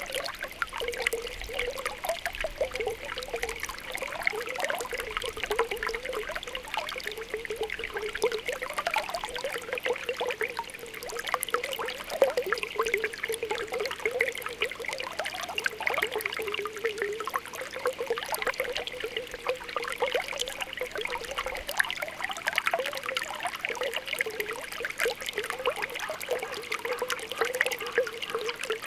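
Spring water welling up from the ground, bubbling and popping continuously with a steady trickle.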